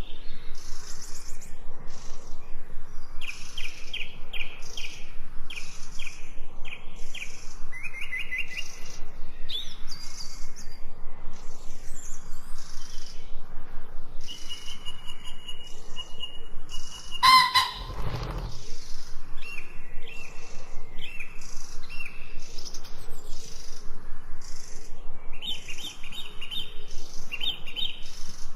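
Many small songbirds chirping and twittering, in repeated short calls and quick high trills. One loud, short burst stands out about two-thirds of the way through.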